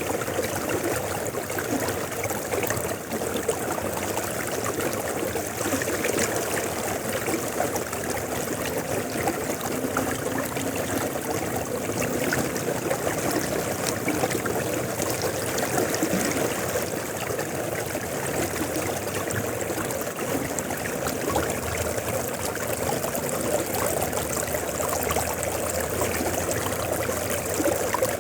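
River water flowing steadily, a continuous rushing and burbling with small splashes.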